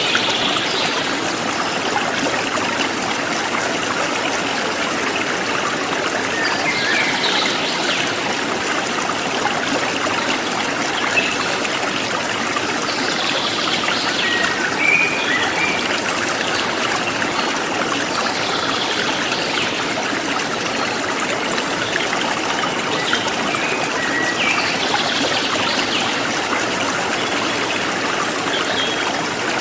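Forest stream flowing steadily, with birds chirping briefly every few seconds.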